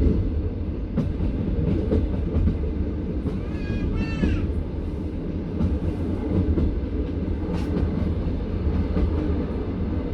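Passenger train carriage running on the rails: a steady low rumble of the wheels with uneven clicks and knocks from the track. A brief high wavering tone cuts in about four seconds in.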